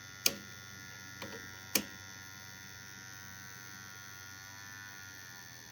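Bench CDI ignition test rig running at high speed, driven by a battery-powered hard drive motor: a steady electric buzz with several tones that drop in pitch about five seconds in as the speed is turned down. Three sharp clicks come in the first two seconds.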